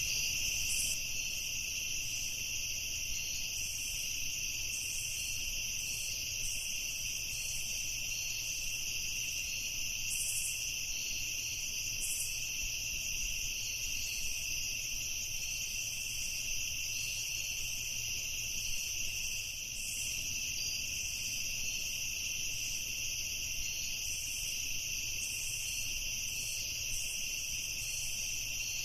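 Night chorus of crickets and other insects trilling steadily at several pitches, with a flickering higher chirring above.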